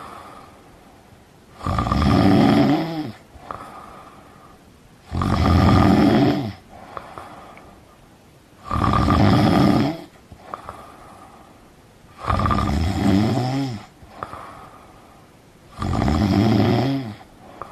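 A person snoring: five loud snores about three and a half seconds apart, each about a second and a half long, with quieter breathing sounds between them.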